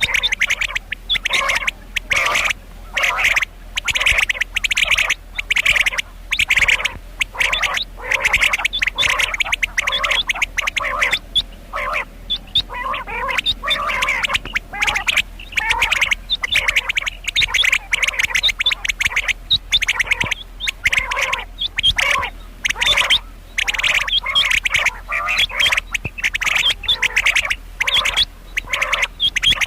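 Female common quail calling: a rapid, raspy chatter in short bursts separated by brief pauses, repeated over and over.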